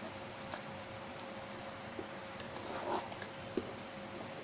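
Spoon stirring a thick mixture of chicken, dal and cooked oats in a pot: a few light clicks of the spoon against the pot and a soft squelch near the end, over a faint steady hum.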